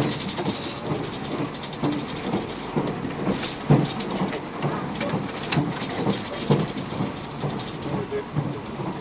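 Argo Bromo Anggrek executive-class train running at speed, heard from inside the carriage: a steady rumble and hiss of the wheels on the rails, with irregular knocks and rattles throughout.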